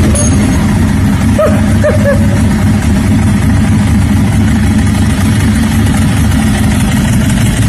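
Motorcycle engine running steadily at a loud, even idle.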